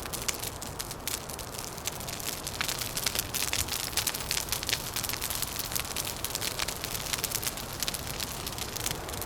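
Crackling wood fire: a dense run of quick pops and snaps over a steady low rushing noise.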